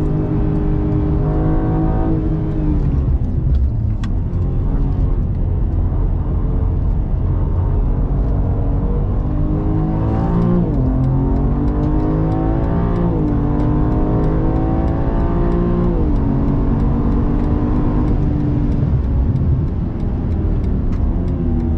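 BMW M3 Competition (G80) twin-turbo straight-six heard from inside the cabin on track. The engine note falls as the car slows for a corner, then climbs under hard acceleration, dropping sharply at three upshifts, and settles near the end as the throttle eases. A steady rumble of tyre and road noise runs underneath.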